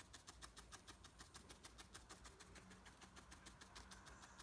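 Near silence, with a faint, even ticking of about six ticks a second.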